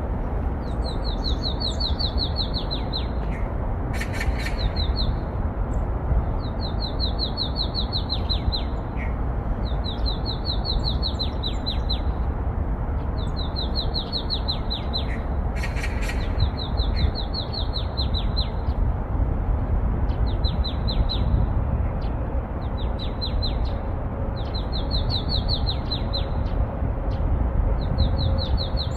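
A small songbird singing, repeating a high, fast trilled phrase of about one and a half to two seconds roughly every two to three seconds, about ten times. A steady low background noise runs underneath, with a couple of brief sharp clicks.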